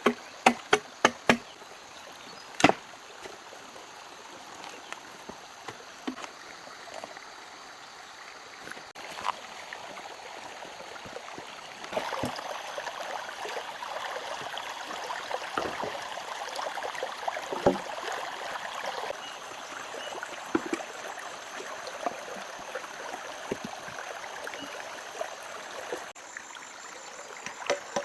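A few quick, evenly spaced strikes of a tool on wood, each with a short ring, then a single strike a couple of seconds later. About 12 s in a steady rushing hiss rises and runs on, with scattered light knocks, until near the end.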